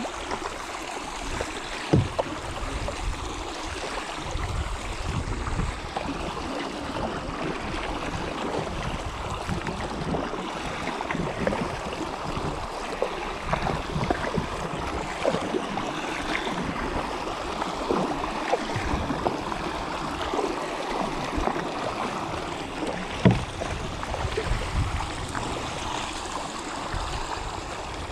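Kayak paddles dipping and splashing in river water, a steady run of small splashes and drips. Two sharp knocks stand out, one about two seconds in and one near the end.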